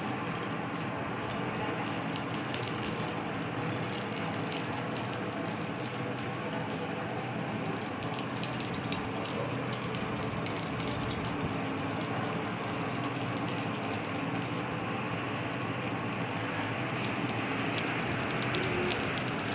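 Rain shower falling steadily: an even hiss with scattered drip and splash ticks. A low steady hum runs underneath.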